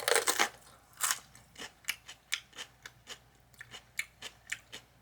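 A bite into a broiled eggplant parmesan sandwich, loudest at the start, then crunchy chewing of the toasted bread and cheese crust, about three or four crunches a second.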